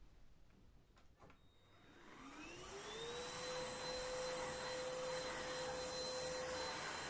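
A vacuum cleaner is switched on: a click or two about a second in, then the motor spins up with a rising whine and settles into a steady high hum with a rush of air.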